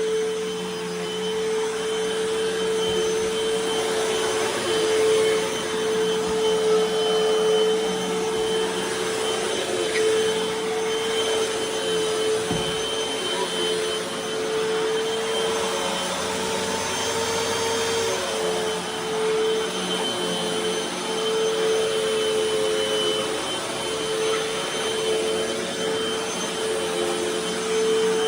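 Hoover T-Series Pet Rewind upright vacuum cleaner running steadily over carpet, with a constant motor tone over the rush of air and small swells in loudness. The owner suspects its fan is a tad off balance.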